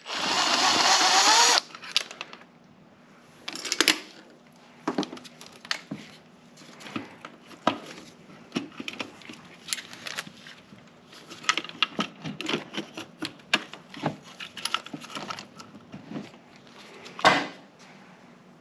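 A short rushing hiss, loud for about the first second and a half, followed by scattered light clicks and knocks of tools and metal parts being handled on the Audi 4.2 V8's throttle body and intake, with a sharper knock near the end.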